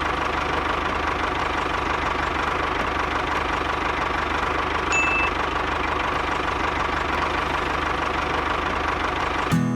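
A motor running steadily with a fast, even knock, and a short high beep about halfway through.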